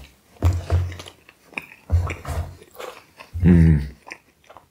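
Close-miked chewing and mouth sounds of someone eating flatbread. A short hummed "mmm" comes about three and a half seconds in.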